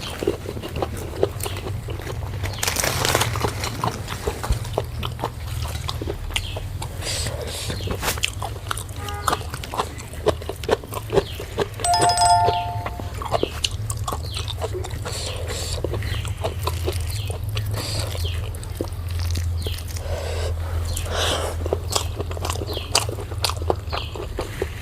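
Close-up eating sounds: a person chewing and smacking food by hand, with many small wet clicks, over a steady low hum. A brief pitched animal call cuts in about halfway through.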